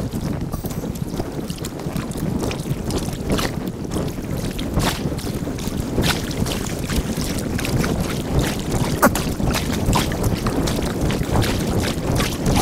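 Kayak paddling on a river, played back sped up. A steady low rush of wind on the microphone and water runs under frequent short, irregular clicks and splashes from the paddle strokes and the hull.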